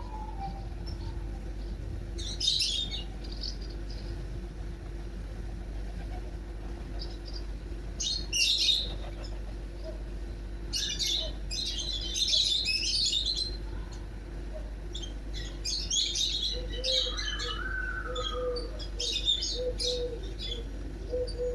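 Small birds chirping and twittering in short clusters every few seconds, with a run of low, evenly repeated notes in the last few seconds, over a steady low hum.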